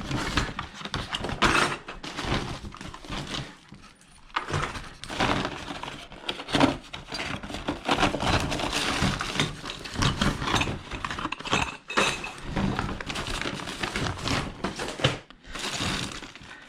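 Rummaging through a bag of small plastic raceway fittings: loose plastic pieces clattering and knocking together amid bag rustling, irregular and continuous.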